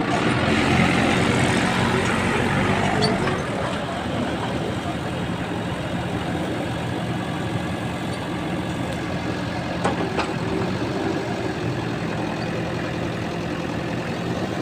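Diesel engine of a JCB backhoe loader running steadily, a little louder for the first three seconds and then easing to an even hum, with a couple of short clicks about ten seconds in.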